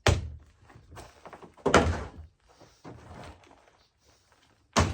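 Three dull, heavy thumps, one near the start, one just under two seconds in and one near the end, with fainter knocks between them.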